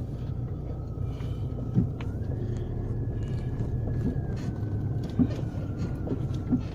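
A four-wheel-drive car driving slowly over a rough, muddy dirt track: a steady low engine drone with a thin whine that shifts a little in pitch, and a couple of sharp knocks as the car is jolted over bumps.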